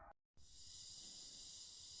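Steady, high-pitched chorus of insects, coming in after a brief drop-out near the start.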